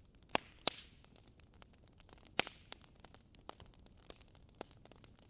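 Fireplace crackling softly: irregular sharp pops and snaps of burning wood over a faint hiss, with the loudest pops about half a second in, just under a second in and about two and a half seconds in.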